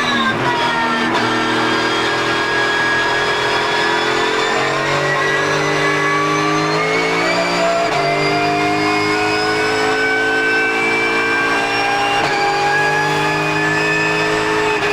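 Porsche GT3 Cup race car's flat-six engine pulling hard under acceleration. Its pitch climbs steadily for several seconds at a time, with abrupt steps as gears change, about every three to four seconds.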